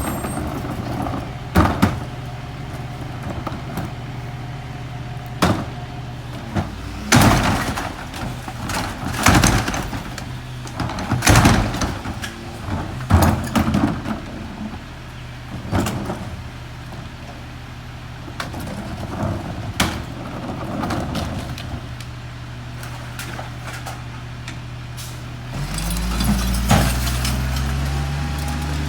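Peterbilt garbage truck with a McNeilus rear-loader body idling steadily while repeated bangs and clatters of trash being loaded into the rear hopper come over it, thickest in the first half. Near the end the engine revs up and holds the higher speed.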